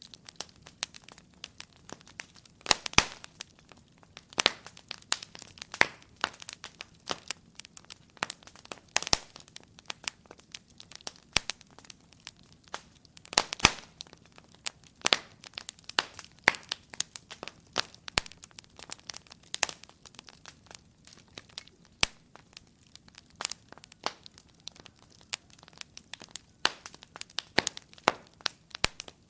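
Wood fire crackling in a fireplace: irregular sharp pops and snaps, several a second, with a few louder cracks standing out.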